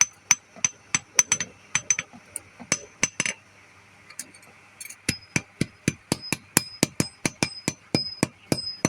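Blacksmith's hammer striking metal on an anvil, each blow ringing. The blows come unevenly at first, pause briefly about halfway, then settle into a steady rhythm of about four strikes a second.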